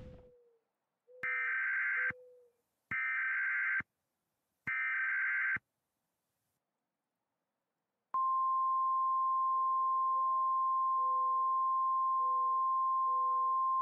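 Electronic weather-alert tones of the kind an emergency alert broadcast uses: three short buzzy data bursts about a second long each, then, about eight seconds in, a steady single-pitch alarm tone.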